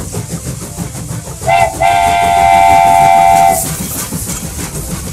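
Steam locomotive whistle: a short toot about one and a half seconds in, then a long blast lasting about two seconds, over the steady rumble of the running train.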